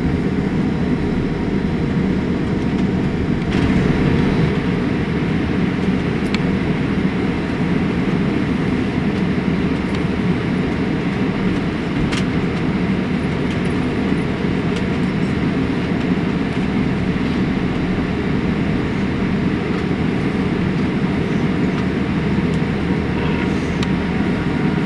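Boeing 787-8 cabin noise while taxiing after landing: a steady low rumble with no change in pitch, and one brief click about halfway through.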